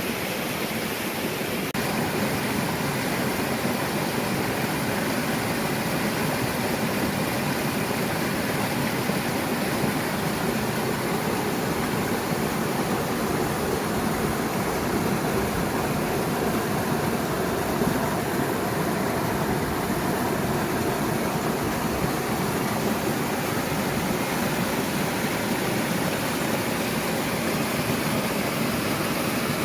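Mountain stream rushing, a steady even sound of flowing water.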